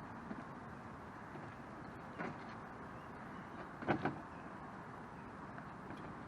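Canoe hull knocking against a vehicle's roof as it is lifted on and set in place: a soft knock about two seconds in, then a louder double knock about four seconds in, over steady background noise.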